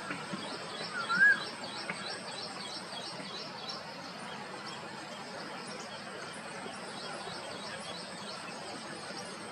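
Birds calling: one loud rising-and-falling whistled note about a second in, over a fast run of short high chirps that fades after a few seconds, against steady background hiss.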